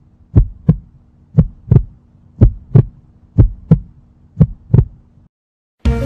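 Heartbeat sound effect: a steady lub-dub, two low thumps close together repeating about once a second over a faint hum, stopping near the end.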